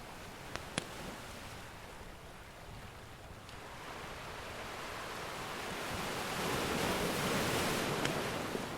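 An ocean wave surging in, swelling to its loudest about seven seconds in and then easing off, over a soft surf hiss. A few sharp pops of a crackling wood fire, two close together near the start.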